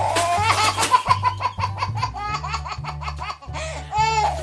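A baby laughing in a run of quick high giggles, over background music with a steady bass line.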